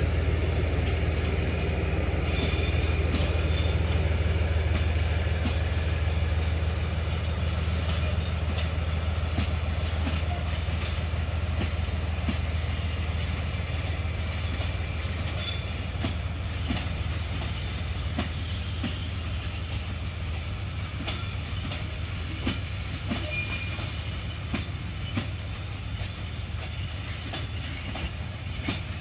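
A freight train rolling past, its wagon wheels clicking over rail joints with some wheel squeal, while the low rumble of the D19E diesel-electric locomotive slowly fades away.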